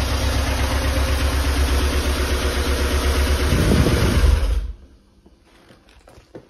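Porsche 968's 3.0-litre inline-four idling cold on its first run after restoration, with hydraulic lifters still noisy from sitting. It stops about four and a half seconds in, followed by a few faint clicks.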